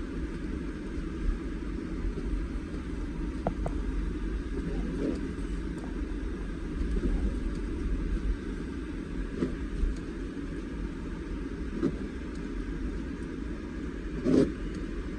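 Steady low rumble of a motor vehicle, with a few faint knocks and one louder thump near the end.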